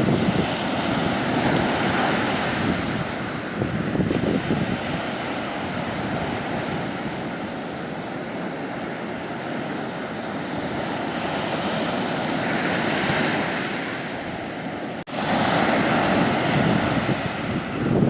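Mediterranean sea waves breaking and washing up a beach, swelling and easing, with wind buffeting the microphone. About fifteen seconds in the sound cuts out for a moment and comes back louder.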